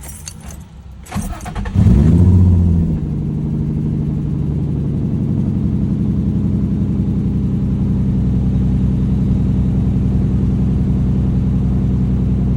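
Nissan 350Z's VQ35DE V6 starting: a few clicks and a short crank, then the engine catches about two seconds in, flares up briefly and settles into a steady idle. This is the first start after a cylinder 3 misfire code was cleared; the owner finds it feels less like a misfire but still feels something is off.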